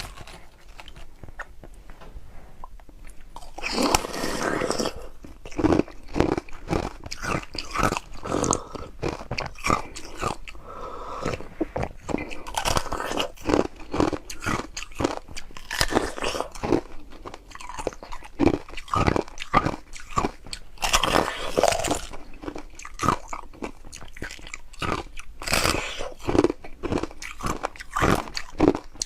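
A person biting and chewing ice: quiet for the first few seconds, then a loud crunching bite about four seconds in, followed by a long, irregular run of sharp crunches as the ice is chewed.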